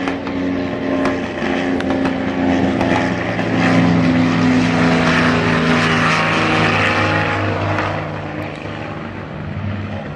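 Propeller aircraft engine droning steadily, growing louder around the middle and easing off near the end.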